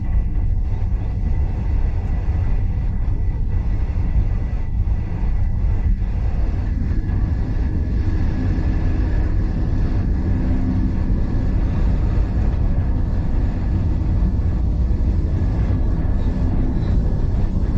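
Heritage steam-hauled passenger train running along the line, heard from inside the carriage: a steady low rumble of wheels and track with a faint thin whine above it.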